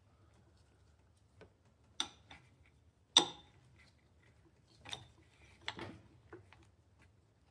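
A few sharp metallic clinks and taps from tools and engine parts being handled on a workbench, the loudest about three seconds in.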